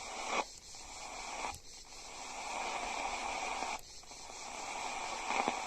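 AM radio receiver tuned to a weak broadcast, playing a steady hiss of static with the station barely coming through. The noise drops out briefly several times, a second or two apart.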